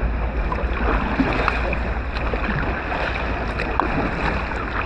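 Water splashing and trickling around a kayak as it is paddled, with many small irregular splashes and drips. Steady wind rumble on the microphone runs under it.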